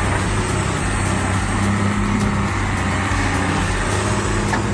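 Heavy machine's diesel engine running steadily, a constant low hum under a dense mechanical din.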